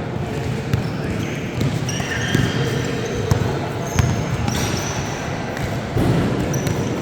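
Indoor basketball game: a basketball bouncing on a gym floor, with short high squeaks from sneakers and a steady murmur of crowd voices echoing in the hall.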